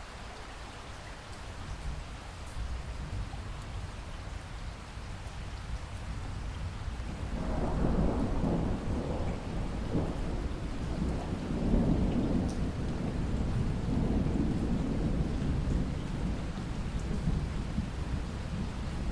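Steady rain, with a long roll of thunder that builds about seven seconds in and rumbles on for several seconds, swelling twice before easing off.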